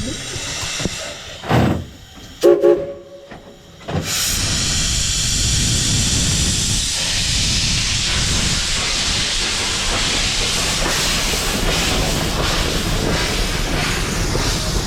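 Steam locomotive: a short burst, then a brief chime whistle blast about two and a half seconds in, then a loud, steady hiss of venting steam from about four seconds on.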